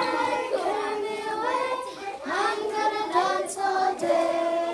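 A group of young children singing a song together in unison, in several phrases with held notes.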